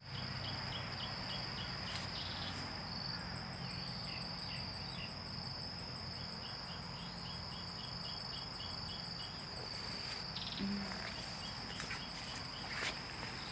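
Insects, crickets among them, sounding together: a steady high-pitched drone, with trains of short chirps repeating about five a second.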